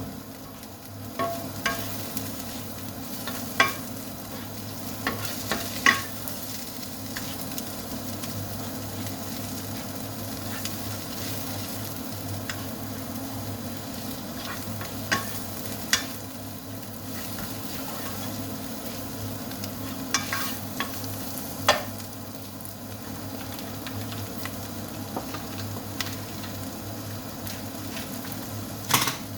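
Lamb frying and sizzling in a pan as it is stirred with spices. A spoon knocks sharply on the pan now and then, several times near the end.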